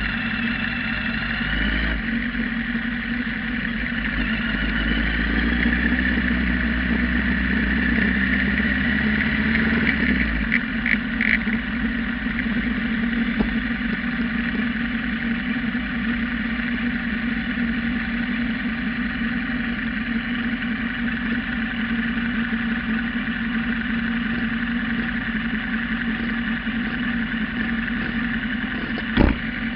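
Kawasaki GPZ900R's inline-four engine running at low, steady revs through an aftermarket muffler, heard on a cheap onboard action camera. The pitch rises a little over the first few seconds and then holds steady, with one sharp knock near the end.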